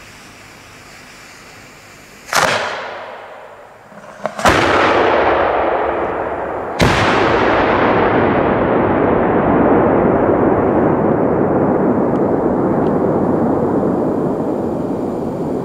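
Aerial firework salutes going off: three loud, sharp bangs about two seconds apart. The last is followed by a long rolling echo that fades slowly.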